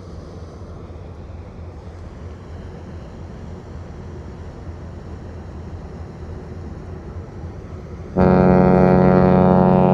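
Steady low rumble of outdoor ambience, then about eight seconds in the deep, loud blast of a Royal Caribbean Oasis-class cruise ship's horn starts and holds steady.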